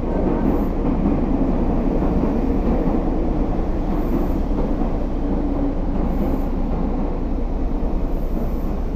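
Meitetsu red-and-white limited express electric train pulling in along an underground station platform, a steady rumble of wheels and running gear as it brakes almost to a stop.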